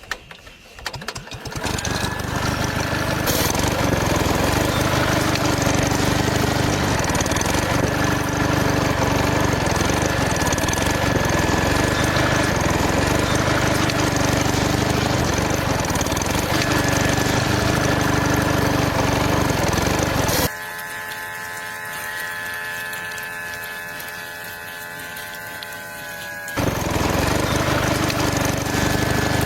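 A small motor running steadily and loudly. About twenty seconds in it cuts abruptly to a quieter, even hum, and the loud running comes back near the end.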